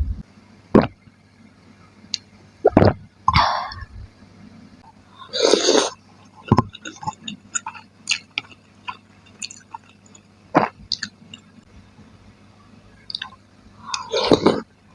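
Close-miked eating sounds of a person biting and chewing chicken and tofu curry: wet, squishy mouth sounds with scattered sharp clicks, and three longer noisy bursts, about three seconds in, near the middle and near the end.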